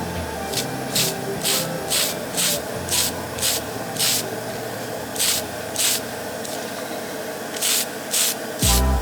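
A series of short hissing strokes, roughly two a second with a pause of about a second and a half near the middle, over background music.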